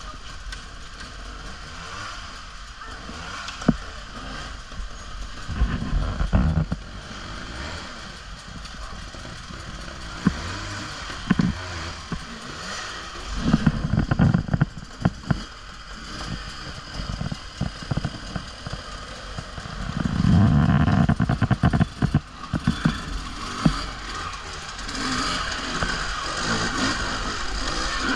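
Off-road motorbike being ridden on a trail, heard from a camera mounted on the bike: a steady motor whine, with heavy gusts of wind buffeting and knocks and clatter from bumps in the terrain.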